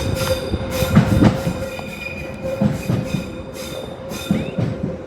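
A train passing close by, its wheels knocking over the rail joints in a repeating rhythm, with high metallic wheel squeal over a steady hum.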